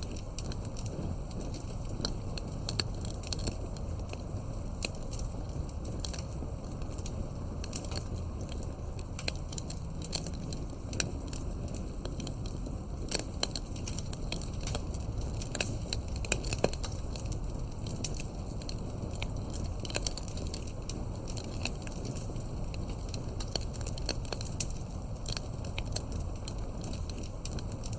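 Wood campfire burning and crackling, with frequent irregular sharp pops and snaps over a steady low rumble.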